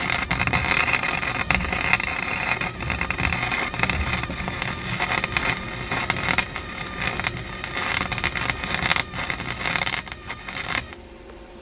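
A 140-amp wire-feed welder's arc crackles steadily as a weld bead is run, then cuts off sharply near the end when the trigger is released.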